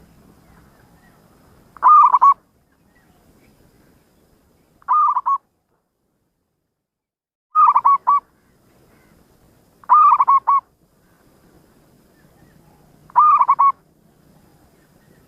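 Zebra dove (perkutut) cooing: five short phrases of a few quick, rolling coos each, repeated about every three seconds.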